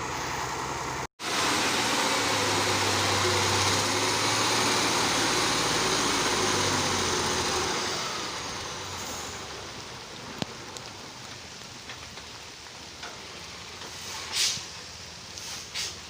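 Heavy truck running close by, its engine and road noise loud for several seconds, then fading away after about eight seconds. A few brief hisses near the end.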